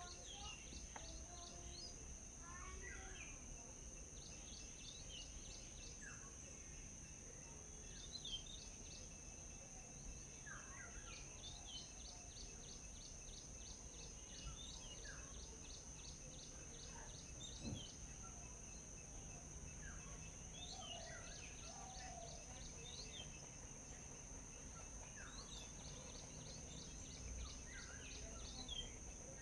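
Faint birdsong from several birds: runs of rapid, evenly repeated high notes a couple of seconds long, with occasional downward-sliding calls, over a steady high-pitched tone.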